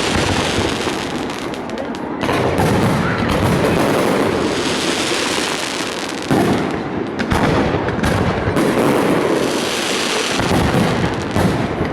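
A fireworks display: a dense, continuous barrage of shell bursts and crackling, with fresh loud volleys setting in about two seconds in, about halfway through and near the end.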